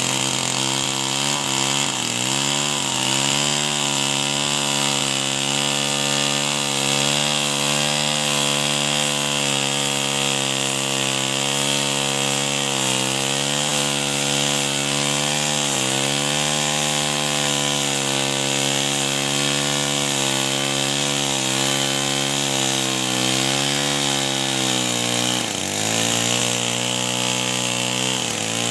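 Two-stroke chainsaw running at high revs while cutting through a log. The engine note stays steady, sagging briefly three times (about 2 s, 16 s and 26 s in) as it takes load, then picking back up.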